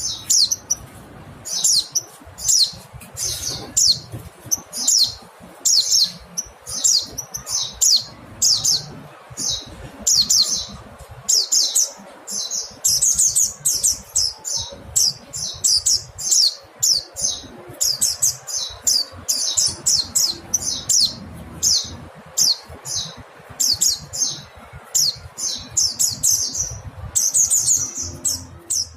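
Mountain white-eye calling: quick runs of high, thin chirping notes, repeated over and over.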